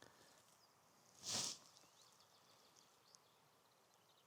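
Near-silent forest ambience with faint, scattered bird calls. About a second and a half in comes one brief hiss of noise, strongest in the high range, the loudest thing heard.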